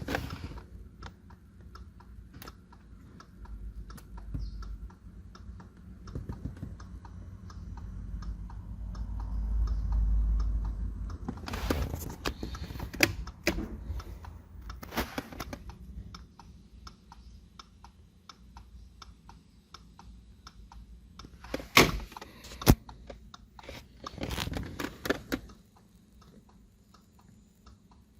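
Workshop handling noises: scattered clicks and taps of small parts and tools, a low rumble swelling about ten seconds in, and two sharp knocks about three-quarters of the way through.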